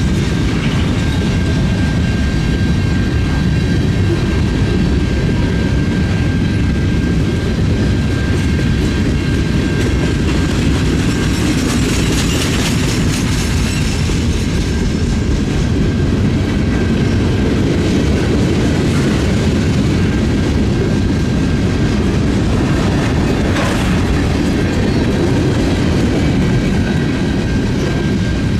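Freight train rolling past with a steady, loud rumble and the clatter of wheels on the rails.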